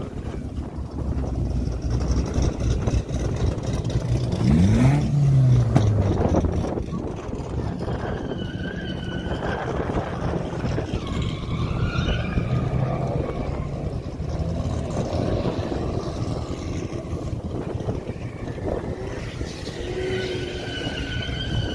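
Car engines running at a car meet, one revving up and back down about five seconds in, with people's voices in the background.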